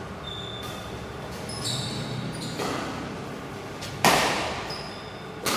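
Badminton rally in a hall: rackets hitting the shuttlecock, with a hard hit about four seconds in and another near the end, each ringing away in the hall. Short high squeaks of shoes on the court come in between.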